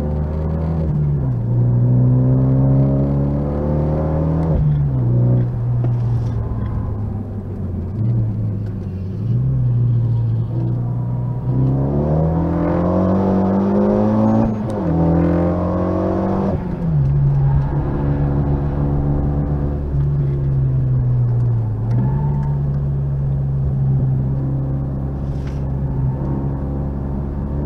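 Renault Mégane RS 265's turbocharged 2.0-litre four-cylinder engine heard from inside the cabin while it is driven hard on track, its pitch rising and falling with throttle and gear changes. About halfway through, the revs climb steadily for several seconds and then drop suddenly.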